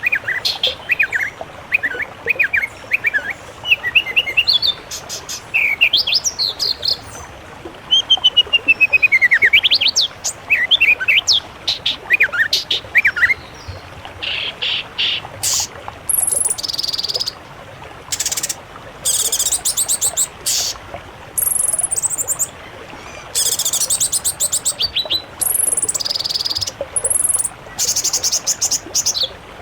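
Songbirds singing. For about the first 13 seconds there are quick, varied whistled phrases that slide up and down. From about 14 seconds in, a higher, buzzier song takes over, made of rapid trills in short bursts with brief pauses between them.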